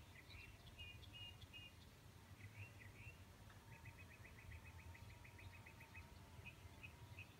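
Faint songbirds chirping in short phrases, with a quick trill of evenly spaced notes in the middle and more chirps near the end, over a low steady rumble.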